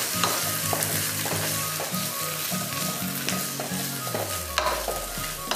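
Cut idli pieces frying in hot oil with mustard seeds, cumin and curry leaves in an aluminium kadai: a steady sizzle, with the spatula scraping and knocking against the pan as the pieces are stirred.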